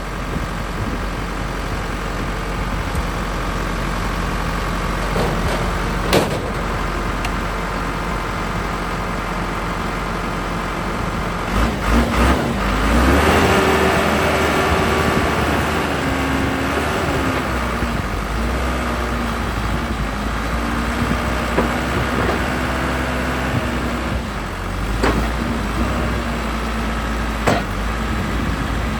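Case 580 Super L backhoe's four-cylinder 4BT Cummins diesel running steadily while the machine is operated. Its note changes and pulls under hydraulic load around the middle, and a few sharp knocks come from the working hoe and bucket.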